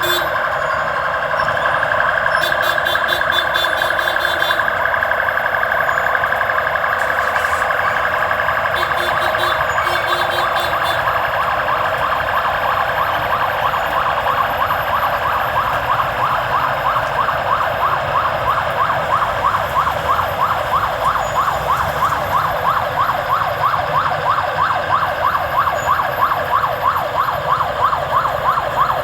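Vehicle siren sounding continuously, wavering at first and switching about halfway through to a fast yelp of several sweeps a second.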